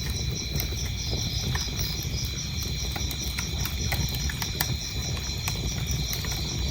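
Wood fire crackling with irregular sharp pops over a low rumble of burning, while crickets chirp steadily in a rapid, even pulse.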